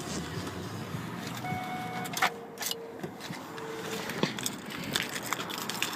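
2002 Ford Expedition being shut down, heard from inside the cabin: a low steady hum, a few short electronic tones near the middle, and several sharp clicks.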